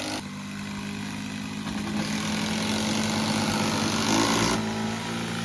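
A vehicle's engine running steadily under a broad rush of driving noise, a little louder midway, then cutting off suddenly near the end.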